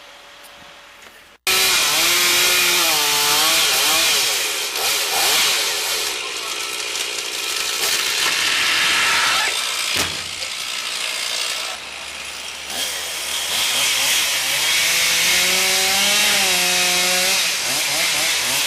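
Chainsaw cutting through poplar wood, starting abruptly about a second and a half in, with the saw's engine pitch dipping and rising as it loads up in the cut. A single sharp knock comes about halfway through.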